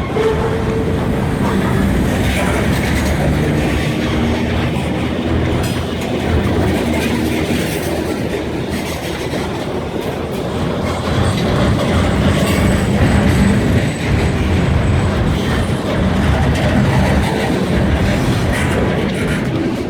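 Freight train rolling past: a steady, loud rumble of railcars with wheels clattering over the rail joints, and a thin high wheel squeal around the middle.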